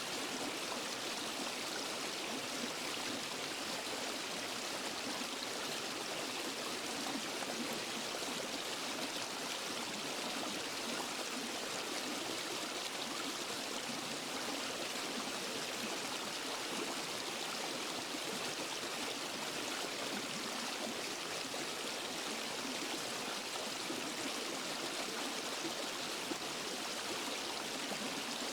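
Waterfall and forest stream: steady rushing water with no breaks or changes.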